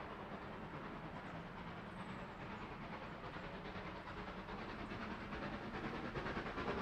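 A rail vehicle approaching along the track, unseen. Its wheels on the rails make a steady running noise that grows louder over the last couple of seconds, with a faint clickety-clack near the end. A couple of faint high bird chirps come over it.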